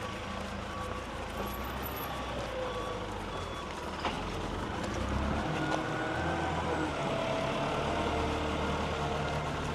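A truck's reversing alarm beeping about once a second, fading out after about three seconds, over the low rumble of the truck's engine, which grows a little louder in the second half.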